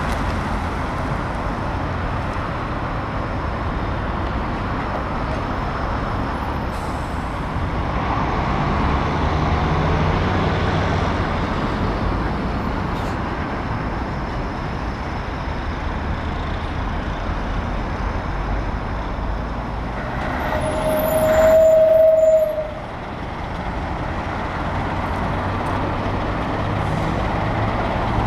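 Heavy diesel trucks running and passing, a steady engine rumble. About three-quarters of the way through, a short, loud high tone sounds and then cuts off suddenly.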